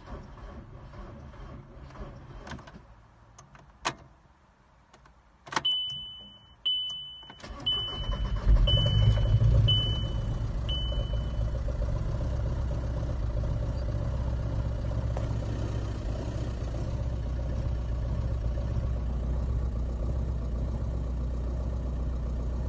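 2005 VW Golf Mk5 1.9 TDI four-cylinder diesel being started after sitting: clicks, then a dashboard chime beeping about once a second as the engine cranks and catches. It then settles to a steady idle. The car is known to be hard to start after standing for several hours, despite new glow plugs, battery and fuel filter.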